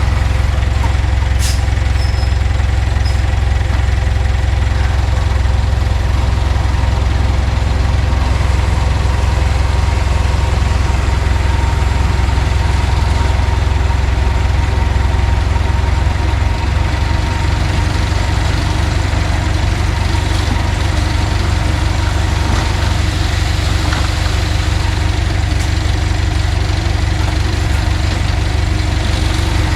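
Komatsu D31P bulldozer's diesel engine running steadily with a loud low rumble, which eases a little about two-thirds of the way through.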